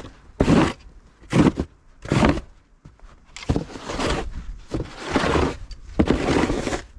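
Snow crunching and scraping in a series of bursts, first short ones under a second apart, then three longer ones of about a second each.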